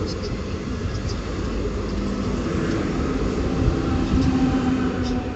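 Train moving along the track: a steady low rumble, with a faint motor whine that rises slightly in pitch through the second half and a few light clicks.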